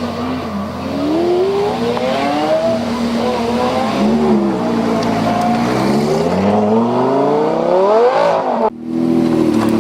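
Lamborghini engine accelerating hard, its pitch climbing through the revs, dropping back, then climbing steeply again. Near the end the sound breaks off abruptly for a moment before a steady engine note returns.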